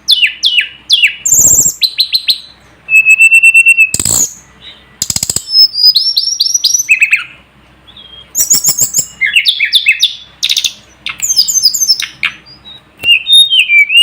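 Tledekan gunung (sulingan gunung) singing: rapid phrases of high whistles, downward-sweeping chirps and quick rattling notes, separated by short pauses, with one held whistle early on.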